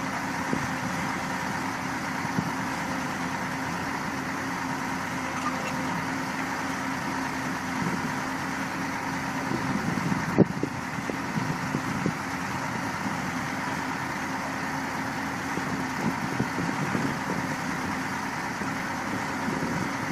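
Heavy machine's engine running steadily at an even speed, with one sharp knock about ten seconds in.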